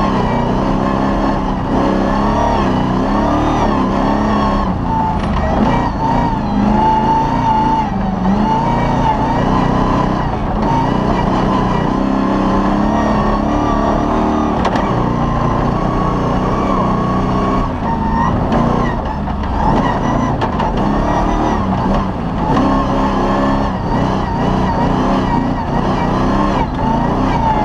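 Off-road rally car's engine running hard under load, its pitch rising and falling as the driver accelerates, shifts and lifts, heard from inside the cabin.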